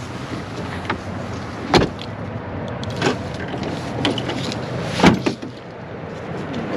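A series of separate knocks and clunks, roughly one a second, the loudest about five seconds in, over a steady background rush, as from a person moving about and handling a camper door while getting ready to step out.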